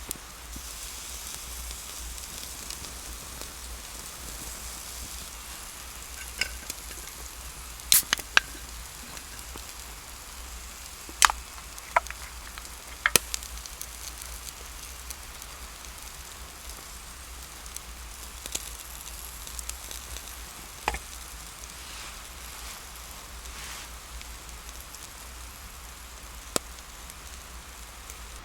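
Food sizzling in a pan over a campfire: a steady hiss with scattered sharp pops and crackles.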